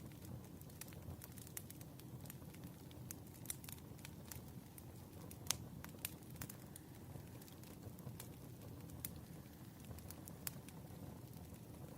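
Wood fire burning, with a steady low rumble and irregular sharp crackles and pops from the burning logs; the loudest pop comes about halfway through.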